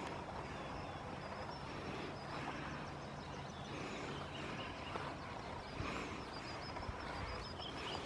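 Small birds singing, with many quick high chirps and trills repeating, over a steady outdoor background hiss. A faint low hum runs through the first half.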